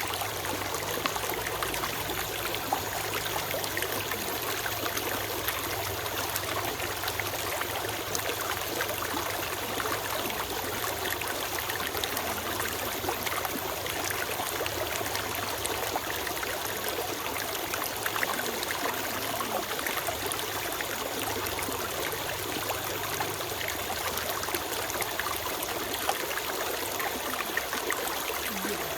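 Forest stream flowing steadily over rocks, a continuous trickling and splashing.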